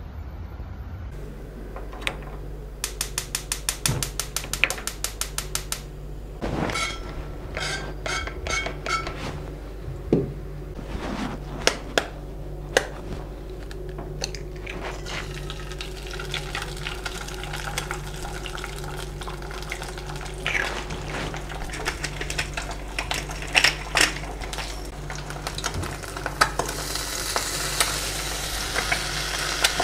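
Rapid even clicking, about eight a second for some three seconds, from a gas hob, then scattered knocks of a pan and utensils. After that comes the steady sizzle of oil frying an egg and sliced ham in a nonstick frying pan, growing louder near the end.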